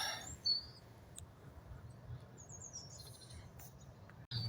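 Small birds chirping faintly: a few short high calls about half a second in, a quick run of little descending chirps near three seconds, and another call near the end.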